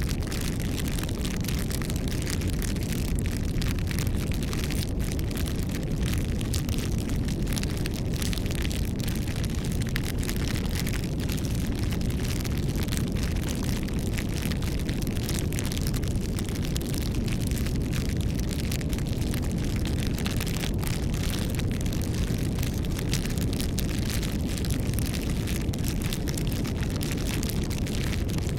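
Campfire burning with a steady low rumble and dense, continuous crackling and popping of the wood.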